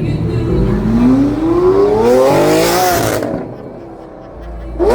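A sports car engine accelerating hard, its note climbing steadily for about two seconds before dropping off and fading. A fresh rising rev starts sharply just before the end.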